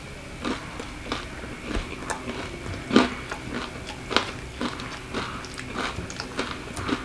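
A person chewing and biting food: irregular short crunches and mouth clicks, the loudest about three seconds in and again a second later.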